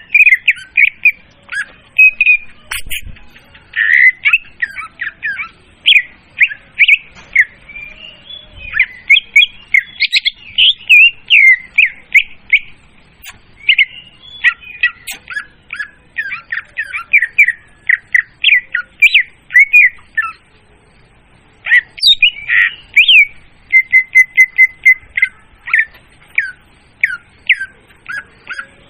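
Leafbird (murai daun) song played loud as a bird-trapping lure call: a fast, unbroken run of varied chirps and squawky notes that swoop up and down. It pauses for about a second some twenty seconds in, then comes back with a short steady trill.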